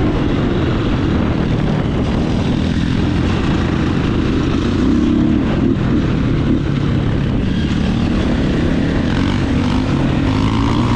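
Dirt bike engine running under way on a trail, its pitch rising and falling as the throttle opens and closes.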